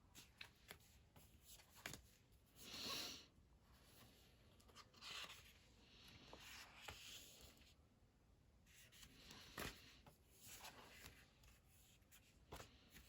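Faint rustling of paper and light taps as sticker sheets and a sticker book are handled, with a louder swish about three seconds in.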